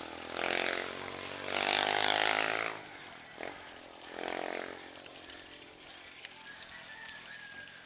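Motor vehicles passing close by three times in the first five seconds, each with a pitched engine tone, then a steady background noise.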